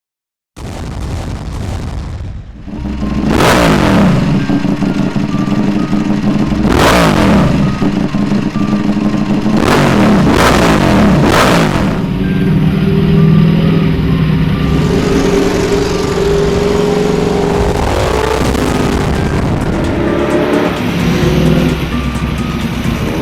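A Ducati Desmosedici RR's V4 engine at high revs, the bike passing at speed four times in quick succession and then running steadily. A music track with a steady beat plays underneath.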